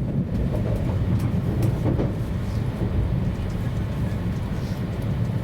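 Running noise of an E2 series Shinkansen heard inside the passenger cabin: a steady low rumble with a few faint clicks and rattles over it.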